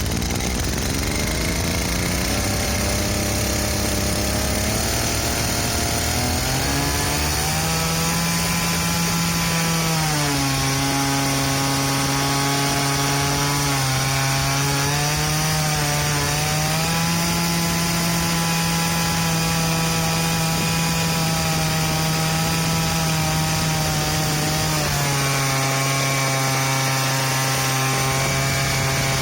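Unmuffled 43cc two-stroke engine revving up over the first several seconds to near 10,000 rpm and holding there at a high, buzzing pitch, dipping and recovering a few times. It runs not quite right: the owner says the carburetor still needs tuning.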